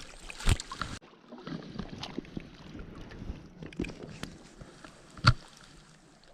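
Light handling noises: scattered soft knocks and rustles, with a sharp knock about half a second in and a louder one a little after five seconds.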